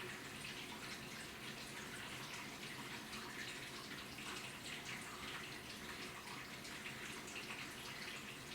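Water running and splashing inside an AQUA washing machine's tub: a steady watery hiss with many small splashes.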